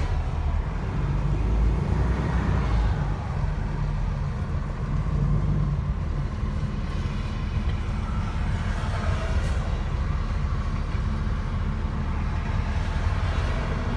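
Steady low rumble of a truck's engine heard from inside the cab, with faint road and traffic noise over it.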